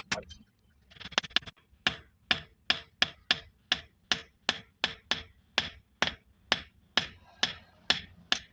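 A hammer striking metal in steady, evenly paced blows, about two or three a second, starting about a second in. Each blow rings sharply, as when shaping a steel part such as a motorcycle sprocket into an axe head.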